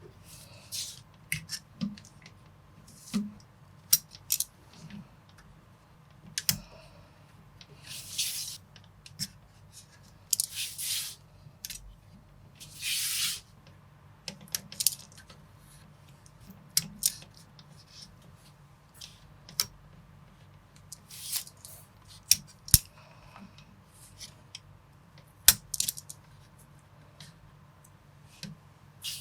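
Plastic building bricks being handled and pressed together: scattered sharp clicks, with a few longer rustles of handled pieces near the middle.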